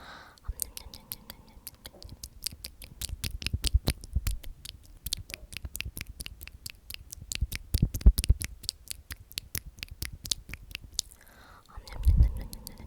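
Rapid, sharp clicks very close to the microphone, several a second, with soft whispering at the start and again near the end.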